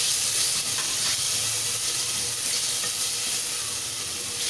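Chopped tomatoes sizzling steadily in hot oil in a clay pot as they are stirred with a wooden spoon.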